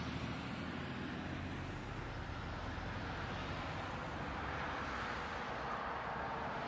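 Steady motor-vehicle driving noise: an even rush of road and wind noise over a low engine hum, with no sudden impacts.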